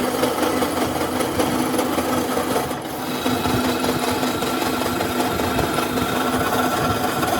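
A motor-driven machine running steadily with a fast, even clatter over a constant hum.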